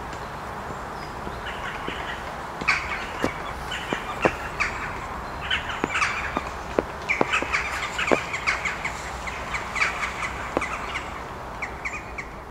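Outdoor birds calling: a run of short, repeated calls with sharp clicks among them, over a steady background hiss. The calls start about a second and a half in and keep on, thick and irregular.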